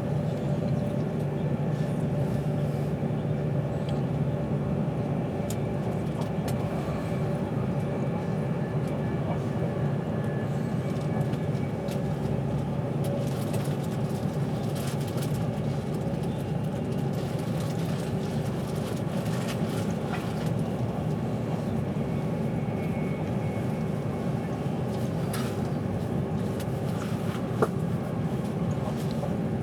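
Steady rumble and hum of an Avanti West Coast passenger train, heard from inside the carriage as it runs along, with a few faint clicks and one short sharp click a couple of seconds before the end.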